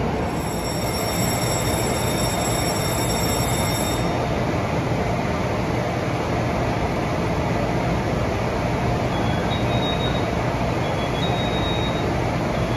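Taiwan Railway electric multiple-unit train standing at the platform with its equipment running, a steady hum and hiss. A few high steady tones sound for the first four seconds, and short high tones come and go near the end.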